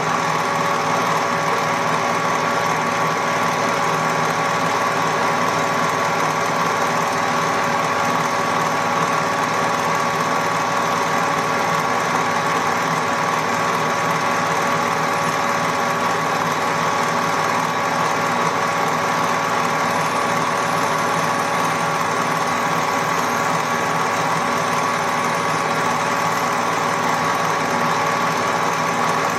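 Metalworking lathe running steadily with a constant gear whine while drilling a tapping-size hole for a 6BA thread in the end of a bronze bar.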